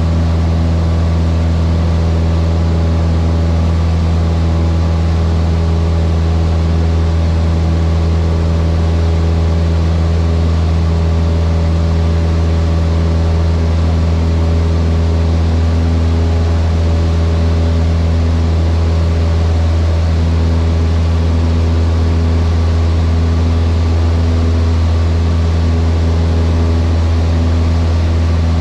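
Cessna 152's four-cylinder Lycoming O-235 engine and propeller running steadily, a constant low drone with no change in speed.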